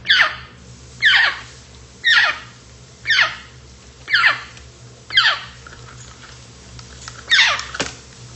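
African grey parrot giving a series of short, sharp calls that drop steeply in pitch, about one a second, with a longer pause before the last one.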